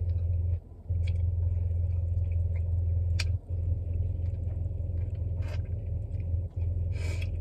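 Eating sounds from chicken wings being chewed, with a few sharp mouth clicks, over a steady low hum that cuts out briefly a few times.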